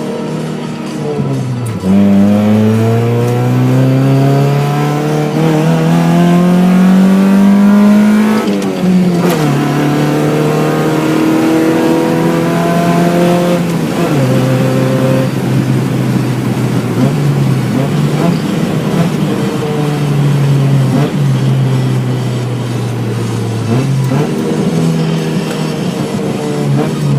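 Straight-piped Acura EL's 1.6-litre SOHC VTEC four-cylinder, with no catalytic converters, pulling hard and loud. Revs climb through the gears, dropping sharply at shifts about 2, 9 and 14 seconds in, then run at steadier revs with small lifts and dips.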